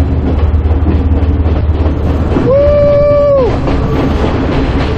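Passenger train running along the track with a steady low rumble. About two and a half seconds in, a horn sounds once for about a second, a single steady note that slides up at the start and down at the end.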